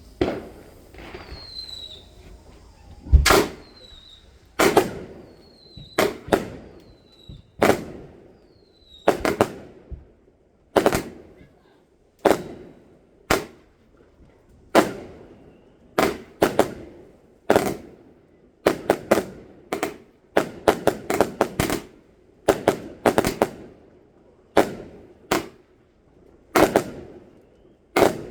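Fireworks going off in a steady series of sharp bangs, about one or two a second, each echoing away. A few short falling whistles come among the first bangs.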